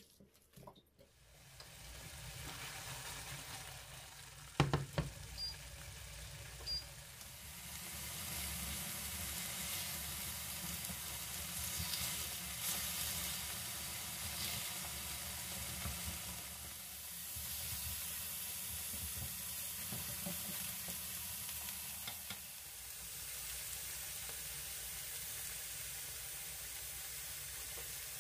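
Sliced rounds of soft tofu frying in oil in a skillet, a steady sizzle as their water cooks off, with a wooden spatula moving them. A few knife knocks on a cutting board come at the very start, and a single sharp clack about five seconds in.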